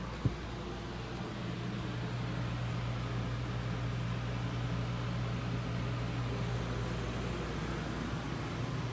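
Steady low machine hum, with a single sharp click about a quarter second in.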